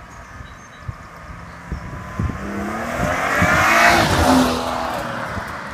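BMW 535i (F10) with an M Performance exhaust accelerating past, its turbocharged straight-six exhaust note building to a loud peak about four seconds in, then fading as it moves away. Wind buffets the microphone throughout.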